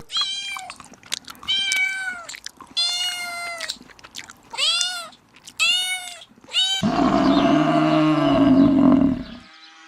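A cat meowing five times, each meow short and rising then falling in pitch. About two-thirds of the way through, a much deeper animal call cuts in and is held for a few seconds.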